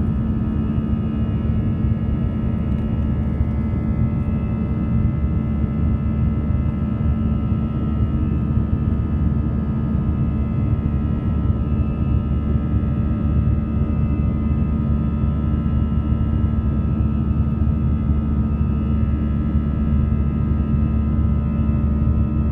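Airbus A319 jet engines and airflow running steadily: a constant low rumble with steady whining tones over it.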